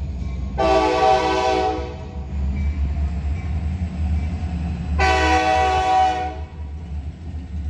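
A loud multi-tone air horn, of the train-horn kind, blasts twice for about a second each, over a steady low rumble.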